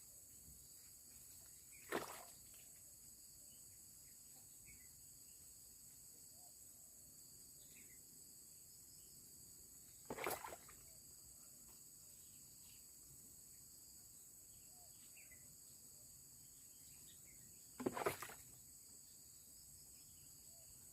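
Steady high-pitched insect chorus, with three short noisy bursts about eight seconds apart: a couple of seconds in, about halfway, and near the end.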